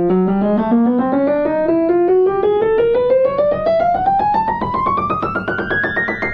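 Piano played one key after another in a steady rising run up the keyboard, about six or seven notes a second, as a check of the tuning once the other notes are tuned.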